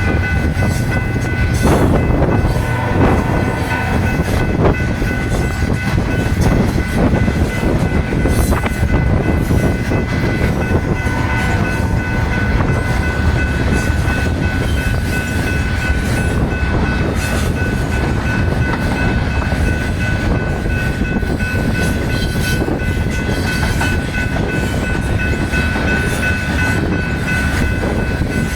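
Freight train cars of a grain train rolling past close by: a loud, steady rumble and clatter of wheels on rail, with knocks over wheel joints in the first few seconds. A steady high-pitched squeal runs over it, growing stronger near the end.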